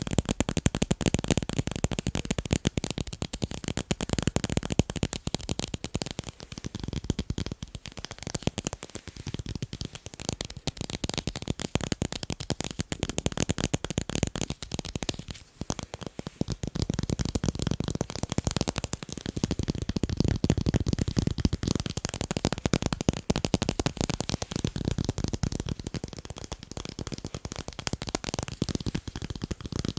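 Rapid, continuous tapping on tape, many quick clicky taps a second, with a brief pause about halfway through.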